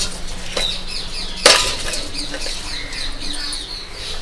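Birds chirping, a run of many short falling chirps, with a single sharp knock about a second and a half in.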